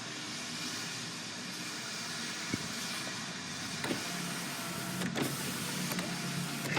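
Steady car noise with no speech, and a low, even hum that comes in about four seconds in.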